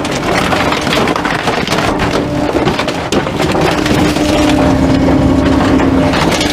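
Garbage truck's compactor crushing bulky items, with a dense run of wood cracking and splintering over a steady hum from the truck.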